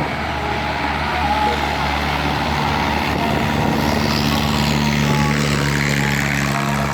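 A boat's engine running steadily, a constant low hum under a broad rushing noise of water and wind.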